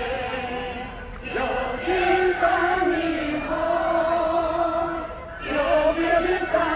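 A group of elderly people singing loudly together, holding long notes with vibrato, with brief breaks between phrases about a second in and again near five seconds.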